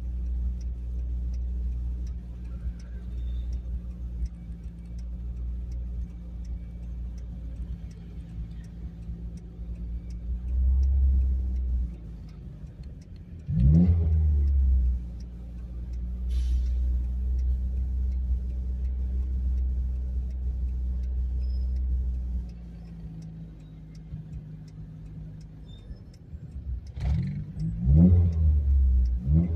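Old VW Gol's CNG-fuelled engine running while driving, heard from inside the cabin. The revs rise sharply about halfway through, and rise and fall a few times near the end.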